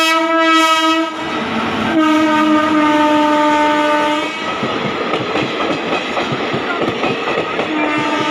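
Indian Railways electric locomotive horn: a short blast, a longer one about two seconds in, and another starting near the end. Between them the rattle and clickety-clack of a passing express train's wheels on the track.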